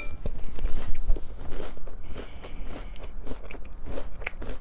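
A person chewing a mouthful of crunchy breakfast cereal, with many irregular crunches.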